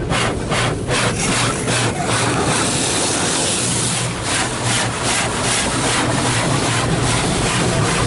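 High-pressure pre-wash spray jets blasting water against the car, heard from inside the car as a loud hiss that pulses about three times a second as the jets sweep across. A steady low hum runs underneath.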